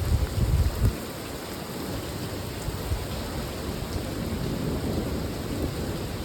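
Steady rain falling, with a low rumble of thunder in the first second.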